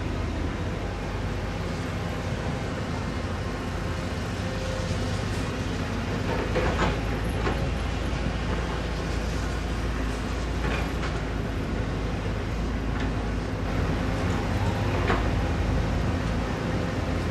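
Heavy diesel earthmoving machinery running steadily, with a few sharp metallic clanks and squeaks of working steel over the drone.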